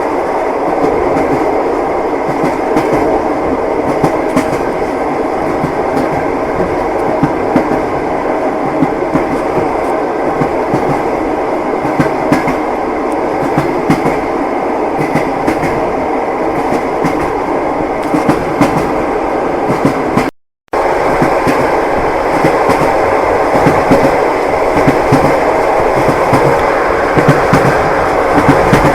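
Train wheels clicking over rail joints over a steady running rumble of a moving train. The sound cuts out completely for about half a second about two-thirds of the way through.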